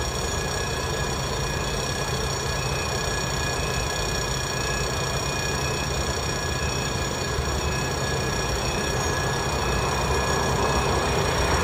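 Approaching Tren de Bragado, a diesel-hauled passenger train, not yet in sight: a steady low rumble with thin steady high tones over it, growing louder near the end.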